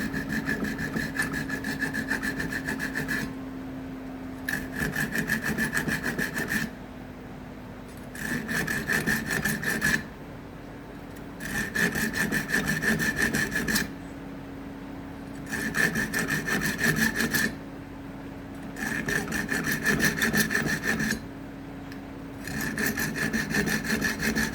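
Small hand saw cutting acacia wood in quick back-and-forth strokes, in seven short bouts of about two seconds each with brief pauses between them.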